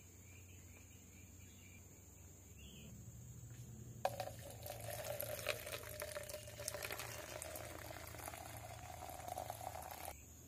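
Water being poured into a cup, starting suddenly about four seconds in and stopping abruptly some six seconds later, its pitch creeping up slightly as the cup fills.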